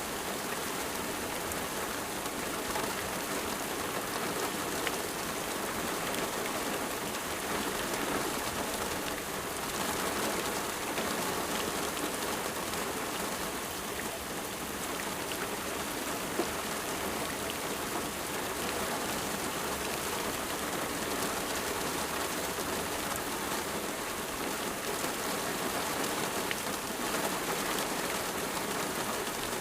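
Steady rain falling, an even hiss of many drops with scattered small drop ticks.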